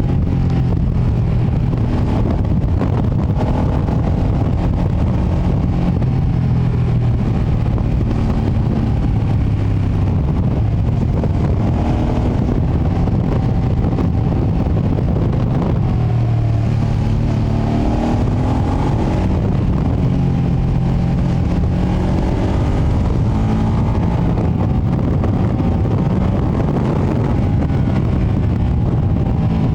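Ducati Panigale V2S V-twin engine on the stock exhaust under way, its pitch rising and falling repeatedly as the bike accelerates and eases off, over heavy wind and road rumble on the microphone.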